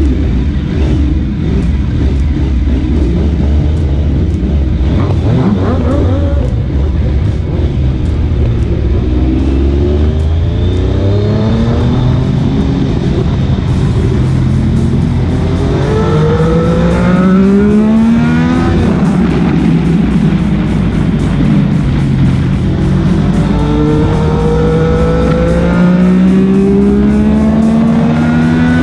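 Motorcycle engine accelerating hard through the gears: its pitch climbs, then drops back at each upshift, in three pulls, with music playing over it.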